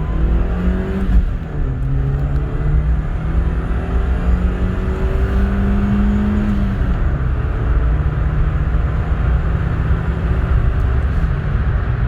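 Ford Ka's 1.3-litre, 69 hp petrol engine accelerating hard through the gears during a 0–100 km/h run. Its pitch climbs, drops at a gear change about a second and a half in, climbs slowly again, drops at another change around seven seconds in, then holds nearly steady.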